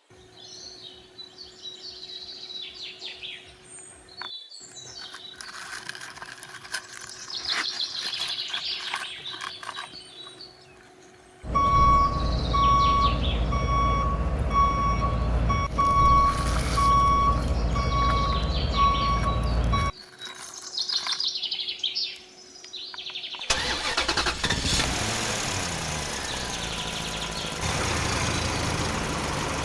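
Birds chirping, then a heavy vehicle engine running with a steady pulsed reversing beep for several seconds; after a short break of chirps, the engine runs on to the end.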